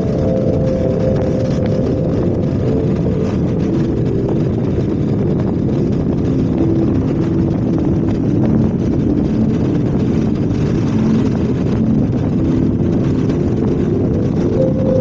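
Motorcycle engine running steadily under way, with dense road and wind noise and a pitch that shifts a little as it rides.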